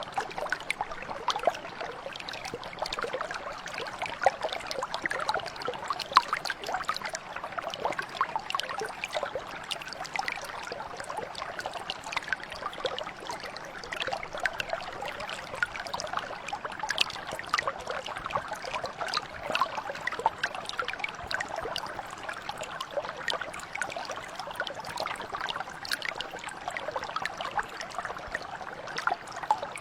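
Small stream flowing over rocks: a steady burble and trickle of water, full of little splashes and drips.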